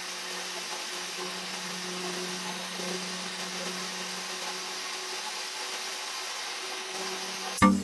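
A power tool's electric motor running steadily at constant speed, giving an even whirring noise over a low hum.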